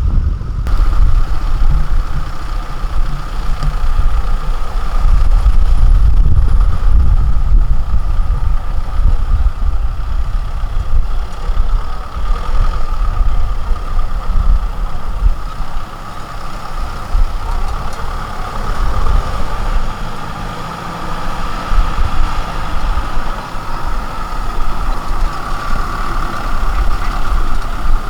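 Diesel engine of heavy farm machinery running steadily, a continuous low rumble with a steady mid-pitched drone, its loudness swelling and dipping as the machine works.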